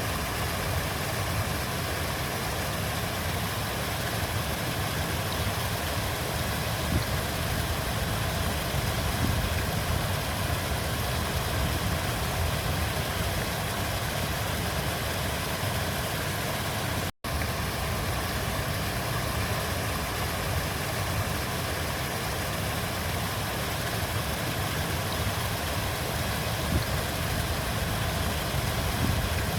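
River water flowing in a steady, unbroken rush with a deep low rumble. About seventeen seconds in it cuts out for a split second.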